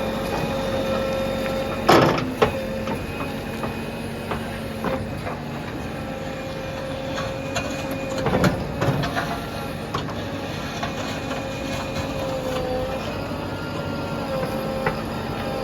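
JCB backhoe loader running as it works, its engine and hydraulics giving a steady whine. Two loud knocks come about two seconds and eight and a half seconds in.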